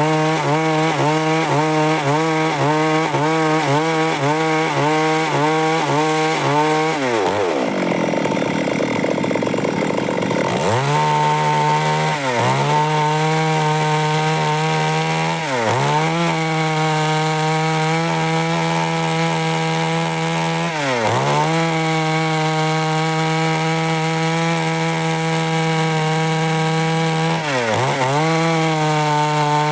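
Stihl MS 382 two-stroke chainsaw running at high speed while cutting through wood, its engine pitch wavering with the load. About seven seconds in, the engine speed sinks for a few seconds and then climbs back. After that it holds steady, apart from four brief dips in speed.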